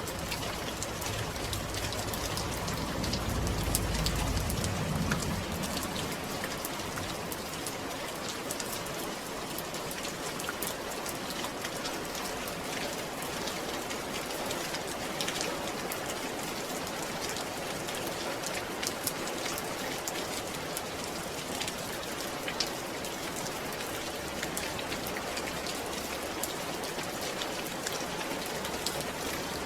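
Steady rain falling, a dense patter of drops hitting a surface. In the first few seconds a low rumble swells and fades under it.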